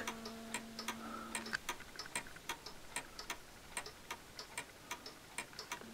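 Mechanical pendulum wall clock ticking steadily, a regular train of soft ticks.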